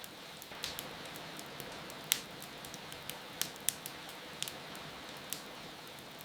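Wood fire crackling, with scattered sharp pops, the loudest about two seconds in, over a steady sound of falling rain.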